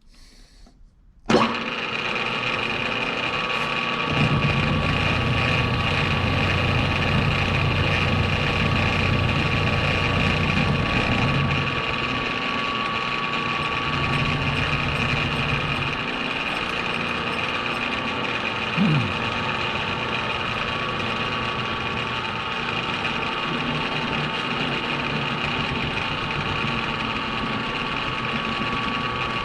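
Metal lathe starting about a second in and running steadily with a gear whine, the low rumble heavier for stretches as it turns a steel insert.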